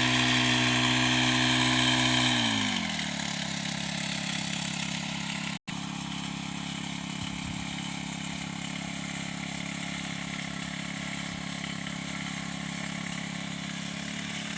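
An engine running steadily at high speed slows down about two seconds in and settles into a steady idle. The sound breaks off for an instant about five and a half seconds in.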